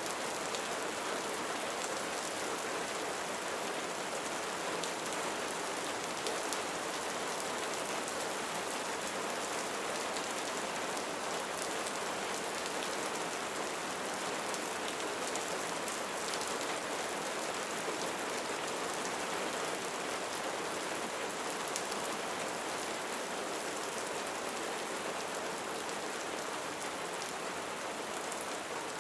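Steady rain falling on a roof, an even patter of many drops with fine individual ticks.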